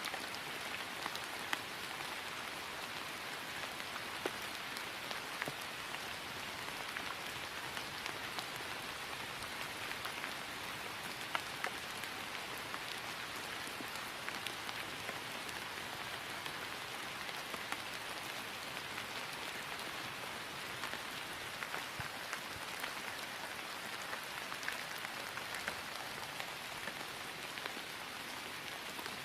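Steady rain falling on grass: an even hiss with many small, distinct drop ticks scattered through it.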